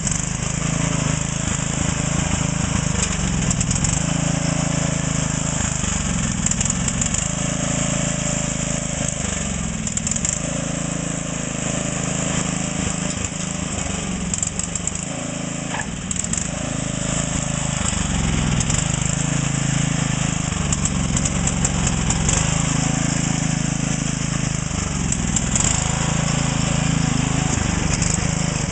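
12 hp Craftsman lawn tractor engine running continuously, its note shifting up and down and easing off a little midway as the tractor is driven hard.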